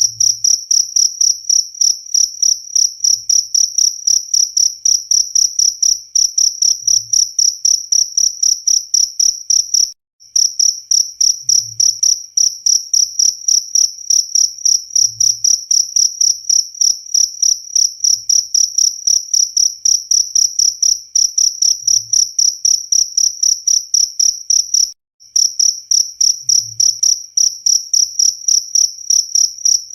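Cricket chirping loudly and continuously, a high, shrill trill of about four to five pulses a second. It breaks off for an instant twice.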